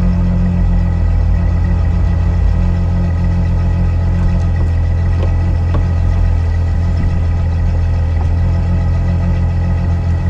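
Ferrari 812 GTS's naturally aspirated 6.5-litre V12 idling steadily, heard from the driver's seat inside the cabin.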